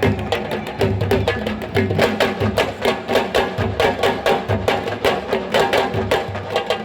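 Traditional Senegalese sabar drumming: an ensemble of drums playing a fast, dense rhythm of sharp strokes, many a second.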